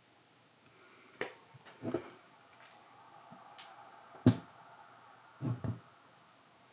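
A handful of light knocks and clicks from small hard objects being handled and set down on a work surface, the sharpest one about four seconds in and a quick pair near the end.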